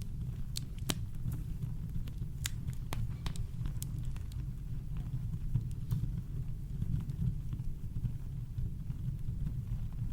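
Campfire crackling: irregular sharp snaps and pops from the burning wood over a steady deep rumble of brown noise.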